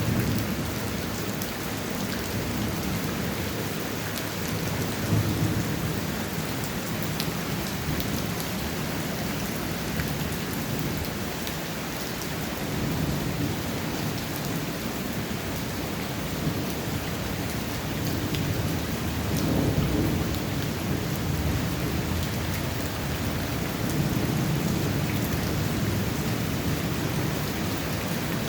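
Heavy tropical rain pouring steadily, with deep rumbling swells that rise and fall every several seconds and the odd sharp tick of a drop.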